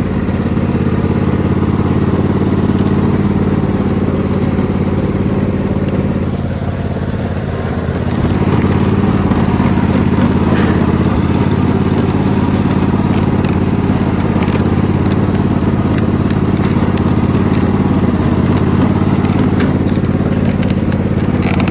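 Riding lawn mower engine running steadily under load as the mower drives through mud. The engine note eases off around six seconds in, then picks back up and runs a little louder from about eight seconds on.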